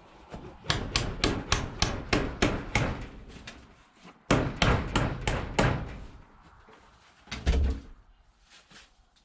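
Hammer blows on wood: a quick run of about nine strikes, about three a second, then a pause and a second run of about five. A heavy double knock comes near the end.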